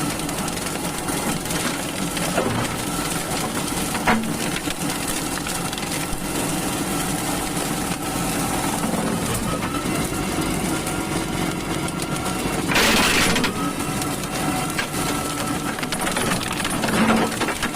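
Tractor engine running steadily under load while a tractor-mounted brush mower shreds undergrowth, with crackling of woody stems being crushed. A louder splintering burst comes about two-thirds of the way through.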